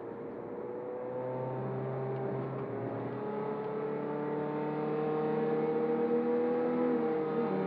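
Turbocharged Toyota Corolla Altis four-cylinder engine pulling hard through an automatic transmission. Its pitch climbs slowly and it grows louder.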